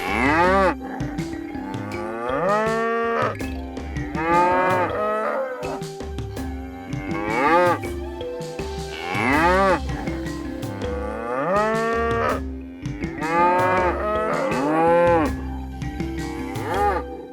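Cattle mooing over and over, each moo rising and then falling in pitch, one every two seconds or so. A soft music bed with steady held tones runs underneath.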